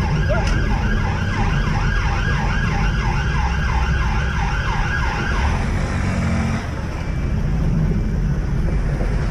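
Police car siren in a fast yelp, each sweep rising, about three a second, cutting off about five and a half seconds in. Heavy vehicle and road rumble runs underneath.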